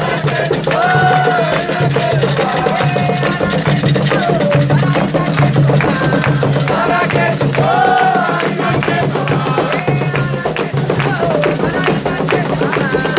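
Drumming with voices singing a chant over it, the drums keeping a steady, dense rhythm throughout.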